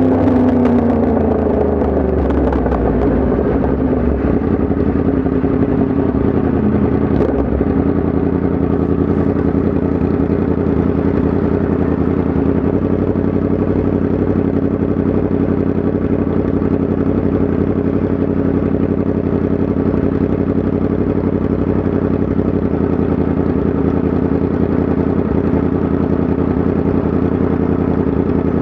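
Yamaha MT-10 SP's crossplane inline-four engine. Its note drops over the first few seconds as the revs come down, then it runs at a steady engine speed.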